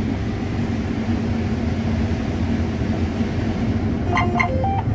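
Combine harvester running while harvesting corn: a steady, low drone of the engine and threshing machinery, with a few short pitched blips near the end.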